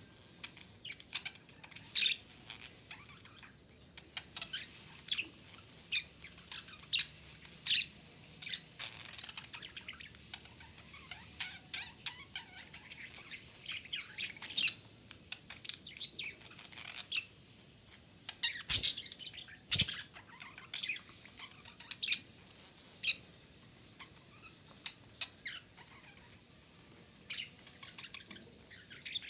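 Female budgerigar chirping: a long run of short, sharp chirps at irregular intervals, with two louder clicking notes about two-thirds of the way through.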